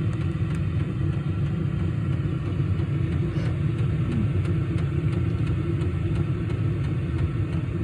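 Diesel air heater running steadily after startup: a dense low hum from its burner and blower, with faint regular ticks on top, typical of its fuel dosing pump.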